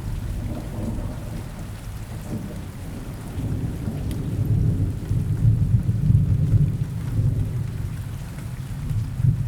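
Steady forest rain with a low rolling thunder rumble underneath that swells in the middle and eases toward the end.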